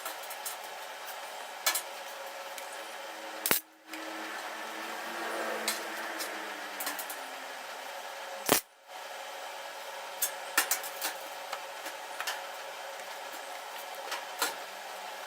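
Workshop work on sheet metal: scattered light clicks and ticks over a steady background hum, with two sharp knocks, one about three and a half seconds in and one about eight and a half seconds in.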